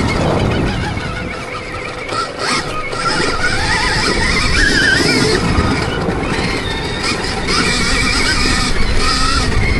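Electric motocross bike's motor whining, its pitch rising and falling with the throttle, over wind rush and knobby tyres on dirt; it eases off briefly about two seconds in.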